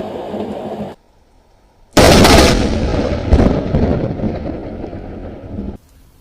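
Close lightning strike: a sudden, very loud crack of thunder about two seconds in, with a second crack about a second later, rolling off into rumbling thunder that breaks off abruptly near the end. Before it, the tail of another rumble cuts off short.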